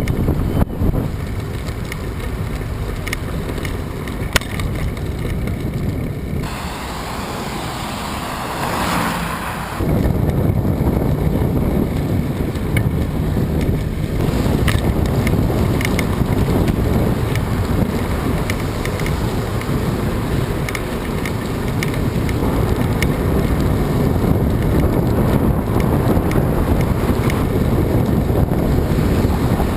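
Strong wind buffeting the microphone during a bicycle ride, a dense low rumble with scattered small clicks. For a few seconds partway through the rumble drops and a higher rushing hiss swells and fades.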